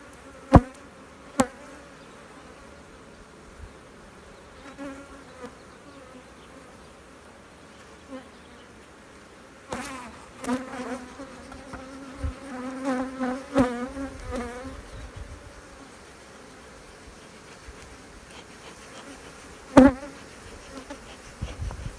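Honeybees buzzing around an open hive. The buzz swells and wavers as bees fly close past between about ten and fifteen seconds in, the sound of a defensive, aggressive colony. A few sharp knocks come just after the start and again near the end.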